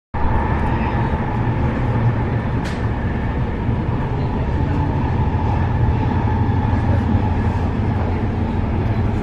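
Electric commuter train heard from inside the passenger car while running: a steady low rumble of wheels and running gear with a faint steady whine over it, and a single sharp click about two and a half seconds in.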